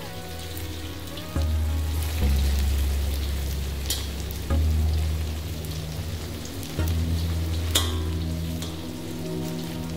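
Coated chicken pieces sizzling as they fry in oil in a wok, with a couple of sharp clicks of a metal slotted spatula against the pan, about four and eight seconds in. Low background music plays underneath.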